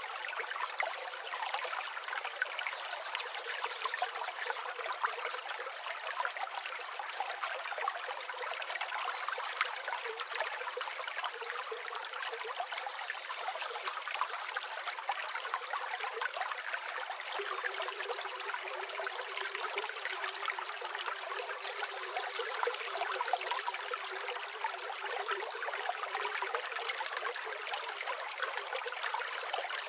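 River water flowing steadily over stones, a continuous trickling and splashing with no deep rumble.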